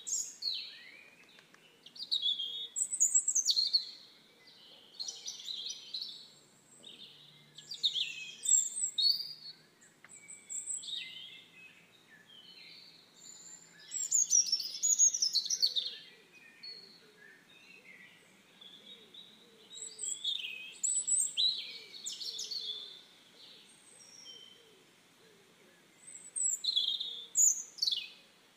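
Songbirds singing and calling: short bursts of quick chirps and whistled phrases every few seconds, with quieter gaps between.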